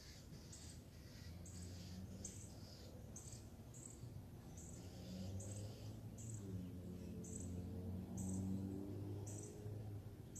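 Short high chirps repeating steadily, about one a second, over a low droning hum that grows louder about halfway through.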